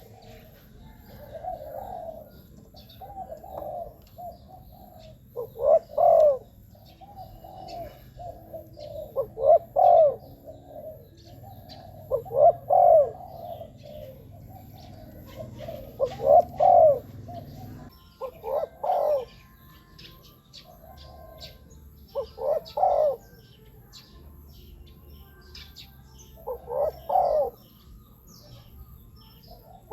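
Spotted dove cooing, a decoy-type dove call: short phrases of low coos repeat every few seconds. Faint chirps of small birds sound between them.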